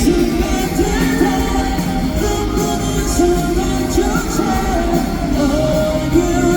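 Live rock band playing a song with guitars and drums under a sung melody, heard through a venue's PA.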